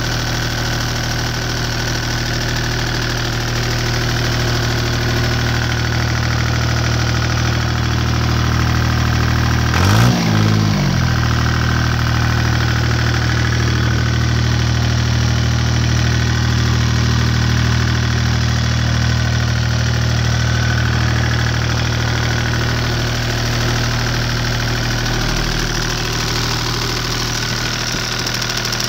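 Deutz 2009L03 three-cylinder direct-injected diesel engine running steadily after a cold start, its speed dipping briefly and recovering about ten seconds in.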